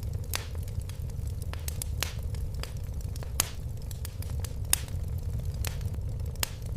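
Fire crackling in a fireplace: irregular sharp pops and snaps over a steady low rumble, with a couple of louder pops in the middle.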